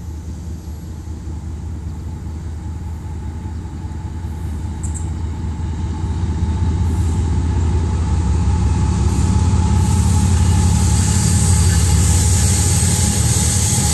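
CSX coal train passing, a steady low rumble of wheels on rail from the freight cars. It grows louder from about halfway through.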